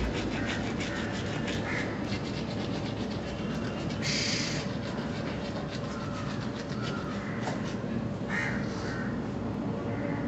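Birds calling: short calls scattered throughout, with louder calls about four seconds in and again about eight and a half seconds in, over a steady background noise.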